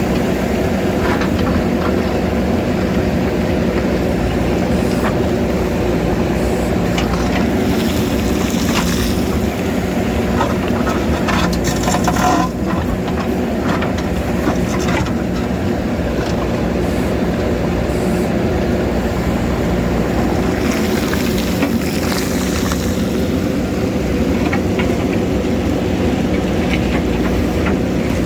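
JCB backhoe loader's diesel engine running steadily under load while the bucket scrapes and knocks against rock, with scattered short scrapes and a louder one about twelve seconds in.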